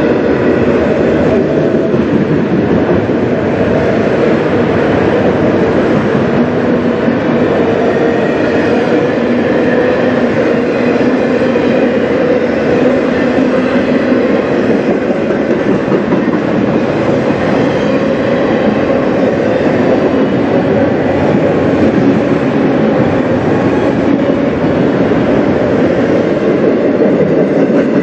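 A long string of autorack freight cars rolling past close by: a steady, loud rumble and clatter of steel wheels on the rails, continuous for the whole passage.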